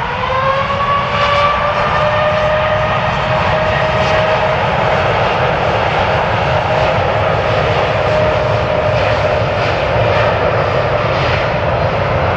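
Jet airliner engines running loud. A whine climbs in pitch in the first second, then holds nearly steady over a continuous roar.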